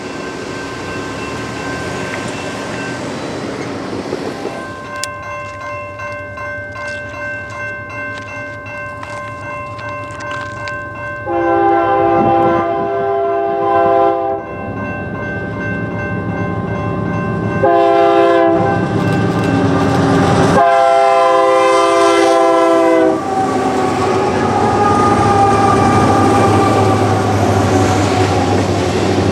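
Diesel freight locomotive's multi-chime air horn sounding a long blast, then after a pause a short blast and a longer one, in the pattern used at grade crossings. Around the horn and after it, the train's rumble and wheels clicking on the rails grow louder as it approaches.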